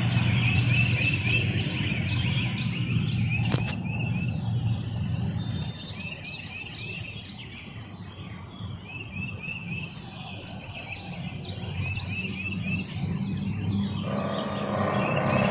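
Small birds chirping in quick repeated series over a steady low rumble; the rumble fades in the middle and swells again near the end.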